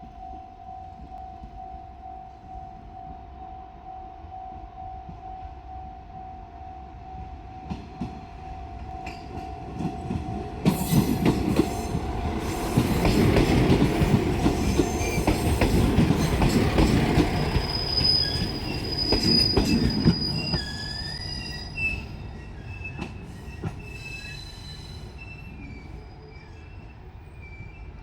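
Level crossing warning bell ringing in a steady pulse while a JR Shikoku 1500-series diesel railcar passes over the crossing about ten seconds in, its wheels clicking over the rail joints. The bell stops as the train goes by, and the wheels then squeal high-pitched as it moves away.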